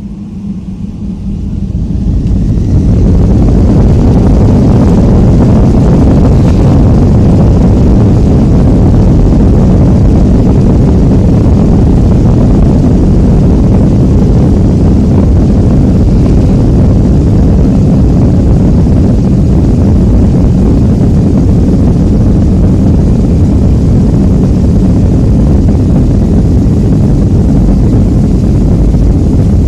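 Boeing 757-200's jet engines, heard from inside the cabin, spooling up to takeoff thrust: a loud rumble that builds over the first few seconds, then holds steady through the takeoff.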